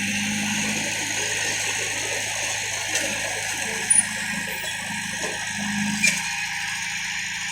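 Heavy diesel machinery running steadily, its low engine note swelling and easing a few times, with a few short clanks about three, four and six seconds in.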